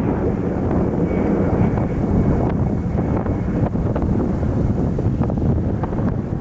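Strong wind blowing across the microphone, loud and steady throughout.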